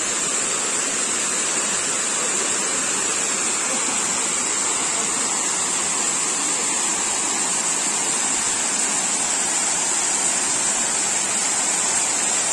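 Waterfall: a steady rush of falling water, with a thin, constant high-pitched hiss above it.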